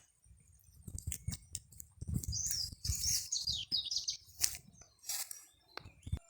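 A bird calling a quick run of high, falling chirps a couple of seconds in, over repeated low knocks, scrapes and sharp clicks.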